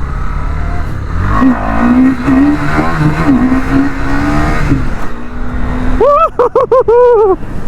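KTM RC 390's single-cylinder engine revving as the bike pulls away. Its note climbs through the middle and drops about five seconds in. A loud warbling sound follows over the last couple of seconds.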